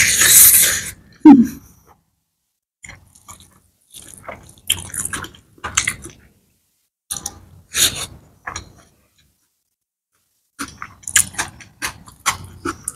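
Close-miked eating: a loud wet bite of curry and rice taken by hand at the start, then intermittent wet chewing and lip smacks, with a quiet pause past the middle. Near the end, more wet clicks as fingers gather food on the tray.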